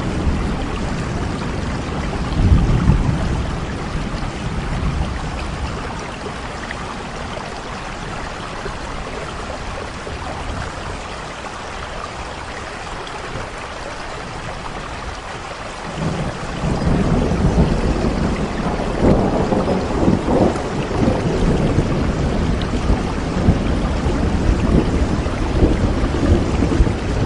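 Steady rain with rolling thunder. A rumble in the first few seconds dies away, then a louder, longer roll of thunder starts suddenly a little past halfway and rumbles on in surges.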